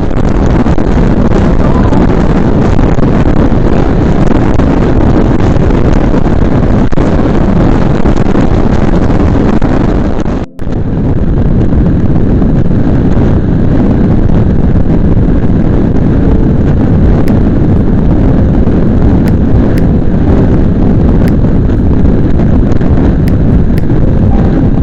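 Heavy wind buffeting on the microphone of a camera riding on a moving motorcycle, a steady loud rush with the bike's running noise mixed in. It drops out for a split second about ten seconds in.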